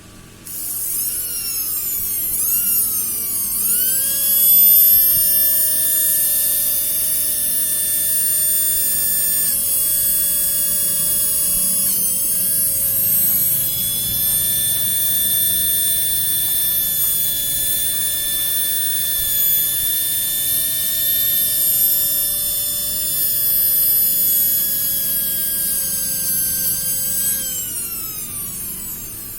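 Small Dinamax electric motor of a Tamiya mini 4WD car, blipped briefly a few times, then spinning up to a steady high-pitched whine and running flat out, winding down with a falling pitch near the end.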